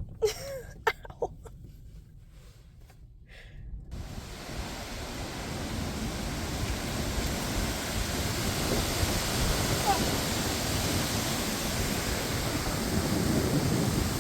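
Strong gusting wind rushing and buffeting the microphone, starting about four seconds in and slowly growing louder; before it, a few short knocks.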